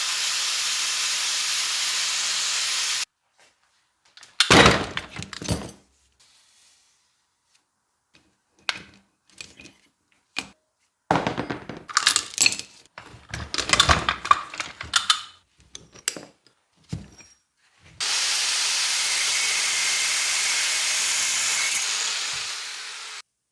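Hand-tool work on an axe in a workshop, in cut-together clips: a steady hissing tool noise, then a run of sharp knocks, cracks and clatter, and then the steady hiss again near the end.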